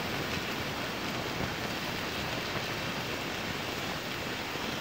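Sliced pointed gourd and potato sizzling steadily in hot oil in a kadhai.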